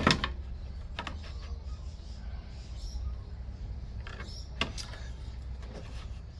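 A sharp knock at the start, then a few light clicks and taps as tools and wood are handled, over a steady low hum.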